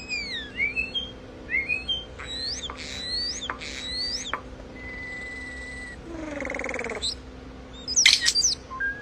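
Starling singing a varied string of sliding whistles and short clicks, with a held whistle a little past the middle followed by a buzzy rattle. It is the mimicking song of a starling copying other birds' calls.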